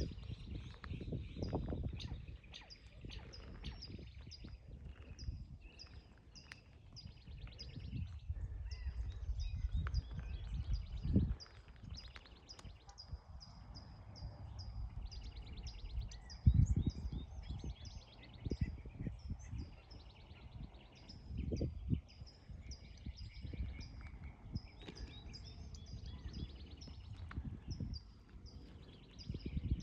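A small bird calling over and over, short high falling chirps about two a second, over a low rumble of wind or handling on the microphone with a few soft thumps.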